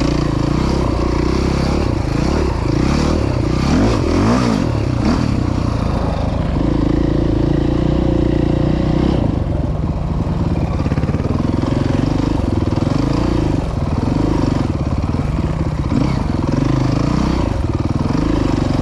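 Dirt bike engine running as it is ridden along a trail, its revs rising and falling with the throttle, with a quick rev up and back down about four seconds in.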